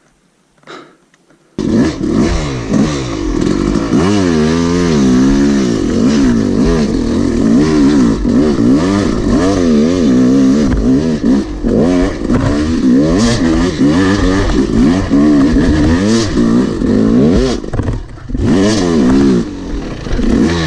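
Yamaha YZ250 two-stroke dirt bike engine, riding on a wooded trail, revving up and down again and again as the throttle is worked. It comes in suddenly after a second and a half of near silence and eases off briefly near the end.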